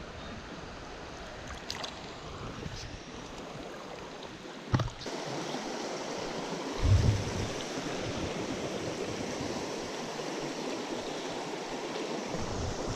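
Mountain stream running, a steady rush of moving water, growing a little louder after a sharp knock about five seconds in.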